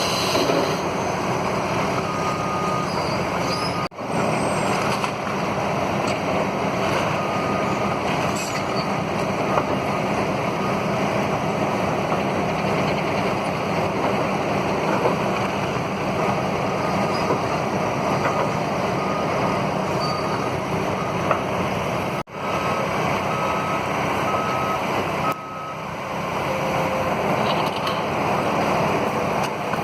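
Heavy machinery's engine running steadily, with a reversing beeper sounding in several runs of short beeps, about two a second near the end.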